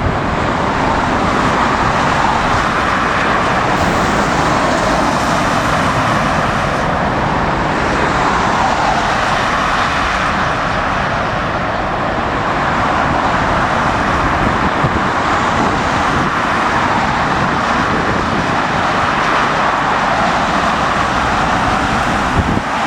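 Steady roar of a jet airliner taking off on the far runway, swelling and easing slowly, with strong wind buffeting the microphone.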